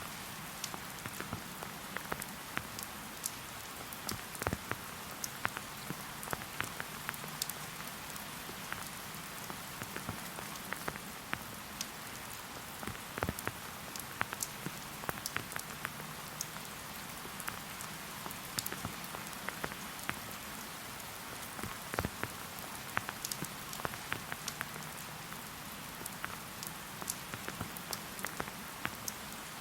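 Steady rain falling, with many individual drops tapping close by at irregular moments.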